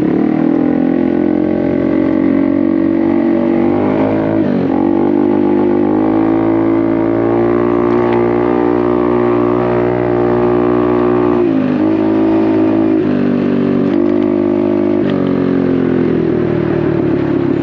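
Honda Navi's small single-cylinder engine running through a Vance & Hines exhaust on the move. The engine note dips briefly about four seconds in, rises steadily, drops sharply about twelve seconds in, then picks up in steps and eases off near the end.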